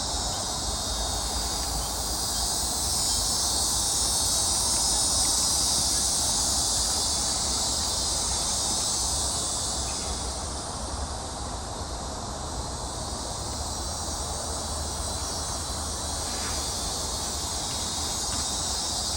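Swamp insect chorus: a dense, steady high-pitched hiss of many insects calling together, swelling slightly in the middle, over a low rumble.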